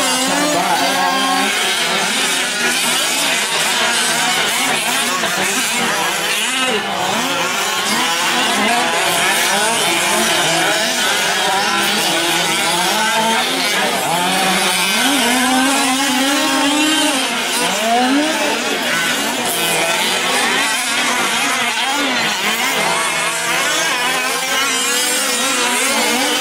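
Several 1/5-scale gas RC trucks' small two-stroke engines racing together, their overlapping pitches rising and falling as they rev up and let off.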